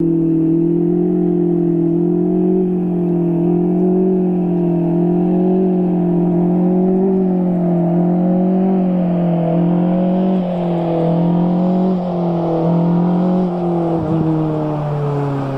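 BAC Mono's four-cylinder engine running at a steady, fairly high speed, its note wavering slightly up and down and settling a little lower near the end.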